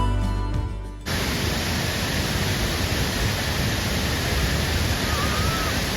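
Background music fades out over the first second, then a sudden cut to the steady rushing noise of a large waterfall, even and unbroken.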